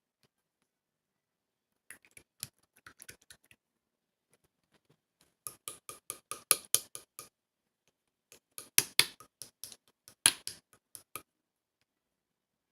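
Clear slime being squished and pressed by hand, giving sharp clicks and pops from trapped air in three bursts.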